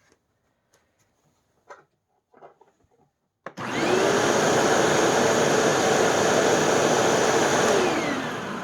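Hoover Tempo Widepath upright vacuum cleaner switched on after a few faint handling clicks, coming up to speed quickly and running loud and steady, then switched off near the end and winding down smoothly. The brushroll runs on freshly regreased bearings and sounds smooth.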